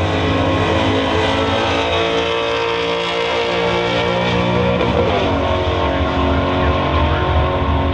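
Fourth-generation Pontiac Firebird's engine at full throttle on a drag-strip pass, accelerating hard. The pitch steps and climbs again a few times as it shifts up through the gears.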